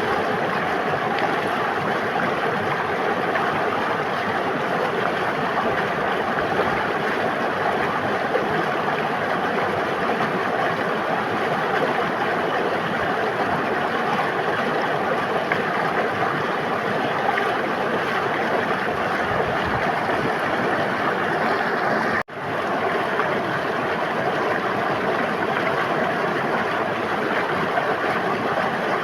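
A river or stream flowing steadily, a dense, even rushing of water. The sound drops out for an instant about three-quarters of the way through and swells straight back.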